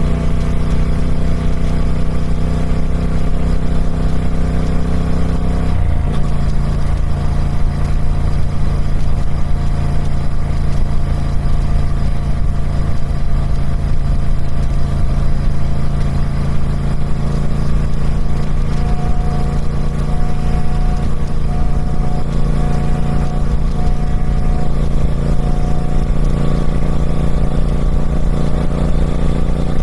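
Triumph Speed Twin 1200's 1200cc parallel-twin engine running through its stock exhaust. Its note shifts abruptly about six seconds in, then holds steady.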